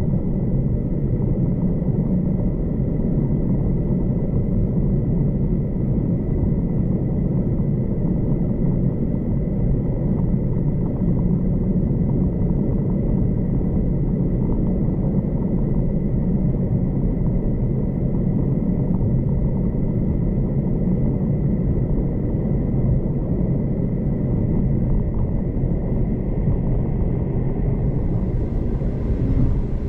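V/Line passenger train running along the track, heard from inside the carriage as a steady low rumble with a faint whine. A higher hiss joins near the end.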